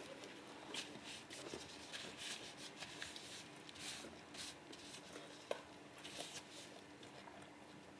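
Quiet, wet chewing and smacking of melon being eaten, a run of small soft clicks at irregular intervals, with one sharper click about five and a half seconds in.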